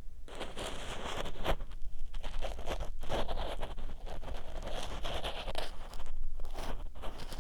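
Ear pick scraping and rubbing inside the silicone ear of a 3Dio binaural microphone: close, scratchy strokes with irregular clicks and crackles.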